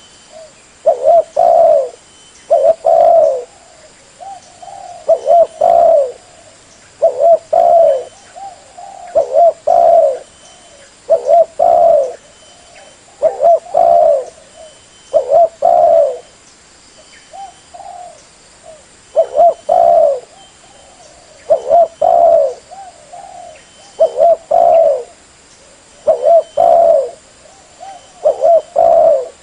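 Spotted dove cooing: short phrases of a few low notes, repeated about every two seconds.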